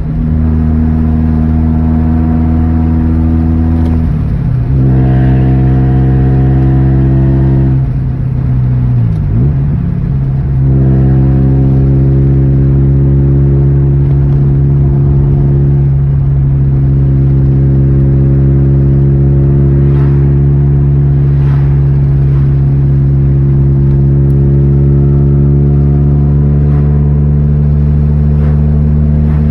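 Nissan S15 Silvia's stock SR20DE 2.0-litre four-cylinder running under way through an Apex exhaust manifold, a straight pipe in place of the catalytic converter and a 5Zigen Super Rap muffler. The revs mostly hold steady, with a change about four seconds in and a dip and climb back around nine to ten seconds in.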